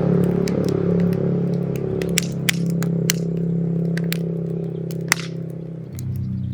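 Firewood crackling in a mangal fire, with sharp irregular pops and snaps. Under it is a steady low hum of several held tones that shifts about six seconds in.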